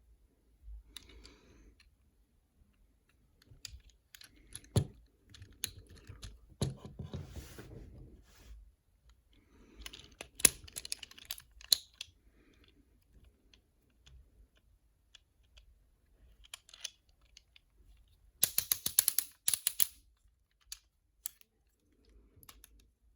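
Plastic toy packaging and a plastic action figure being handled: irregular sharp clicks and crinkles, with a quick, dense run of clicks near the end.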